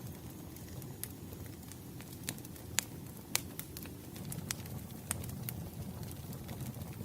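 Wood fire burning: irregular sharp crackles and pops over a steady low rush of the flames.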